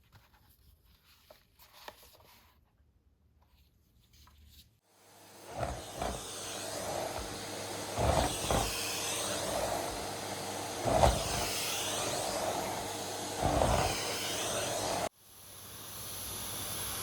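Henry Xtra vacuum cleaner running with its Combi floor tool pushed back and forth across the floor, the suction sound swelling with each stroke about every two and a half seconds. A few faint clicks come before the vacuum starts, and near the end it cuts out abruptly, then builds up again.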